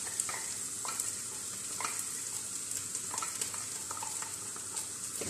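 Onion, ginger and garlic sautéing in hot oil in a deep pot: a steady sizzle, with a few short scrapes of a spatula stirring against the pot now and then.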